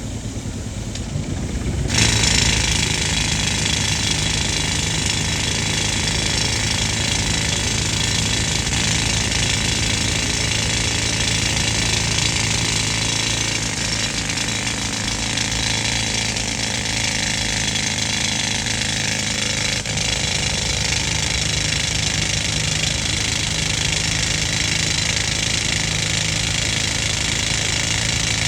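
An air compressor's engine running, then about two seconds in a compressed-air drilling machine starts hammering suddenly and keeps drilling steadily over the engine.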